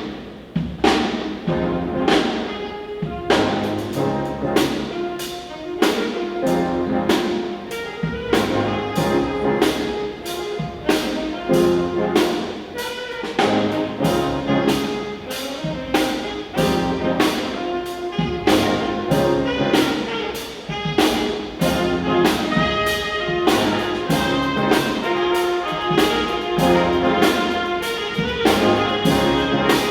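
A school band playing a brass-led piece, trumpets prominent, with drums keeping a steady beat of about two strokes a second.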